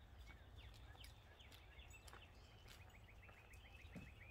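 Near silence with faint birdsong: a few scattered chirps, then a rapid trill of short, even, high notes at about eight a second through the second half.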